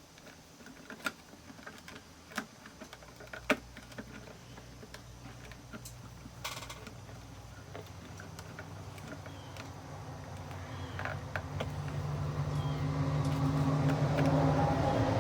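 Scattered light clicks and taps, as of small parts or tools being handled on a workbench, then a steady mechanical hum that comes in about ten seconds in and grows louder toward the end.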